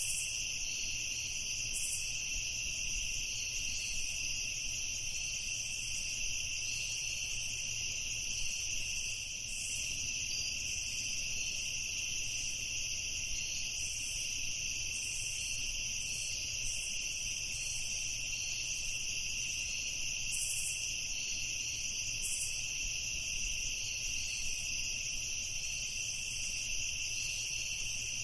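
Night insect chorus of crickets trilling steadily in two continuous high bands, with a faint low rumble beneath.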